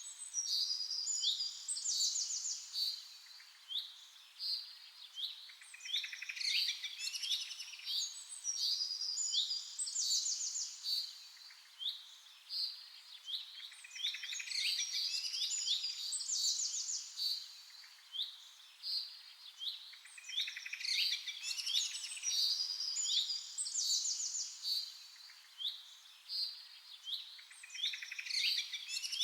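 Several small birds chirping and trilling over one another in quick, high-pitched bursts that swell and ease about every four seconds.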